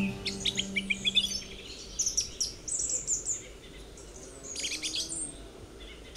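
Small garden birds chirping in quick runs of short, high notes, with pauses between the runs. A held music chord fades out in the first second and a half.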